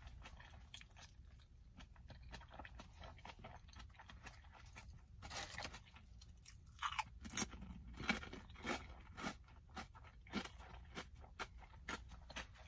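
A person chewing a bite of sandwich close to the phone's microphone: soft crunching and mouth clicks, coming quicker and louder from about halfway through.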